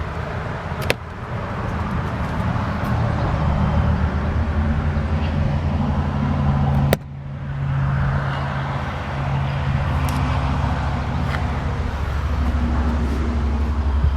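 A motor running steadily with a low hum. A sharp click comes about a second in and another about seven seconds in; after the second the sound dips and builds back up.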